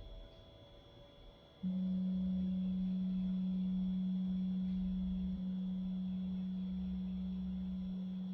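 A single pure, low tone from a sound-bath instrument, starting suddenly about a second and a half in and ringing on steadily. Under it runs the faint, steady hum of a dehumidifier.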